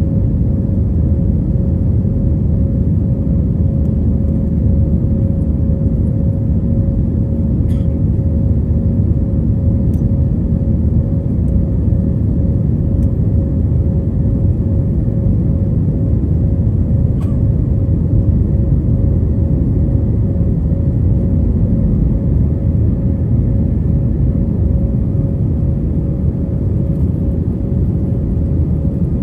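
Batik Air jet airliner heard from the passenger cabin during takeoff: a loud, steady rumble with a constant hum at one pitch running through it.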